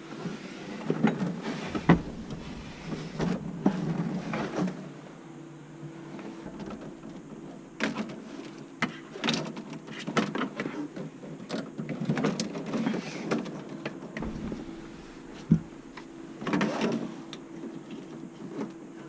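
Hands-on plumbing work: scattered knocks, clicks and scraping of tools and parts being handled, over a steady faint hum.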